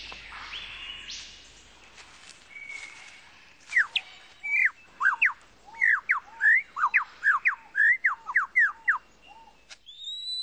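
Superb lyrebird singing: after a few soft whistles, a fast run of loud, clear whistled notes sweeping down and up, about two a second, from about four seconds in. A high, steady whistle begins near the end.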